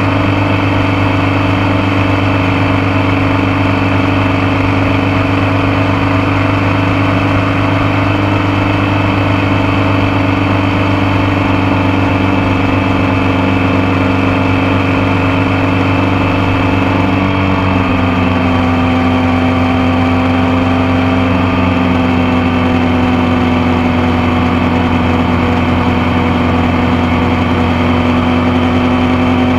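Motorcycle engine running steadily under way, heard close up from the passenger foot peg. Its pitch dips a little about two-thirds of the way through, then climbs slowly again.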